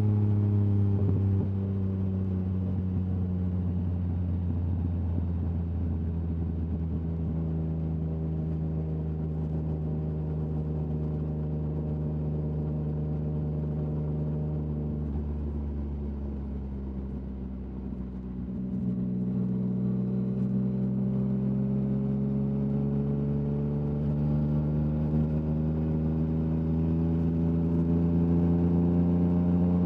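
Yamaha MT-09's three-cylinder engine through an Akrapovic exhaust, its note sinking slowly as the bike rolls off. It dips lowest and quietest a little past halfway, then climbs steadily as the bike pulls away again.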